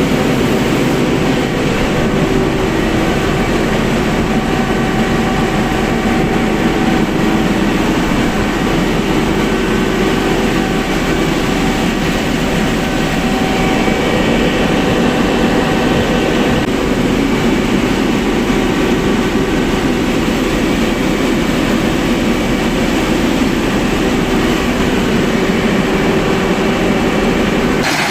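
Deutz BF8M1015 turbocharged V8 diesel engine of a 500 kVA generator set running steadily.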